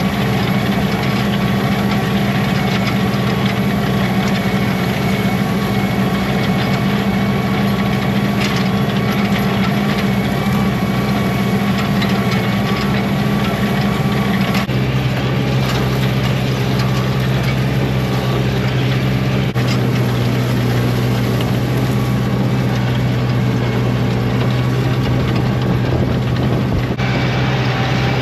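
International farm tractor's diesel engine running steadily at working speed while mowing, with a strong low drone. The drone's pitch drops about halfway through.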